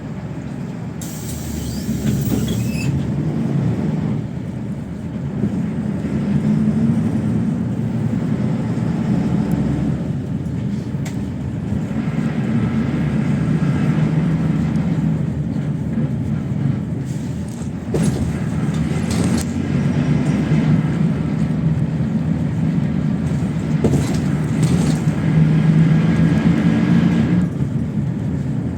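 PAZ 32054 bus running along the road, heard from on board. The engine note rises and falls as it goes, with a short hiss about a second in.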